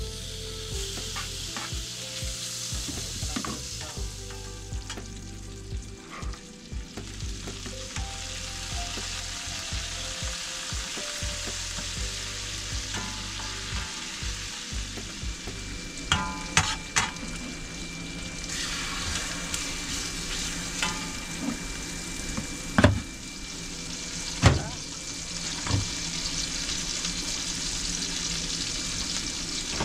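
Green beans, onion and steak sizzling in a frying pan as they are stirred. A few sharp knocks and clinks stand out in the second half.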